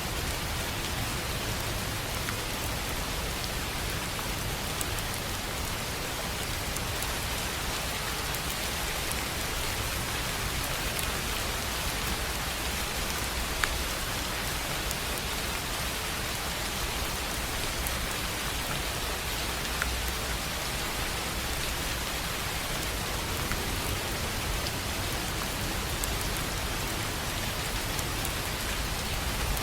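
Steady rain falling on a tin roof: an even patter with a few single drops standing out louder now and then.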